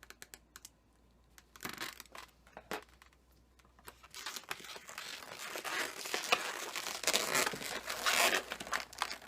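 Latex twisting balloon being handled: a few light clicks at first, then from about four seconds in steady rubbing and crinkling of the latex as it is worked.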